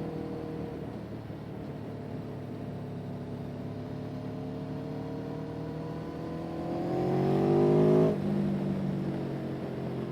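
An engine running under throttle: its pitch holds fairly steady, then climbs and grows louder over about two seconds to a peak near eight seconds in, where it drops off abruptly.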